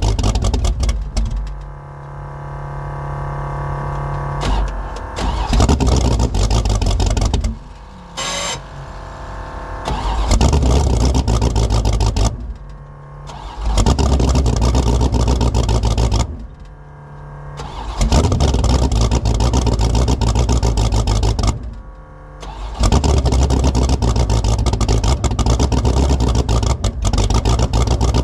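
Fox Body Mustang drag car's carbureted engine on a cold start, running in repeated loud surges that drop away in short dips between them as the throttle keeps it alive. It has no choke and an oversized 878 CFM carburettor, which make it hard to keep running cold.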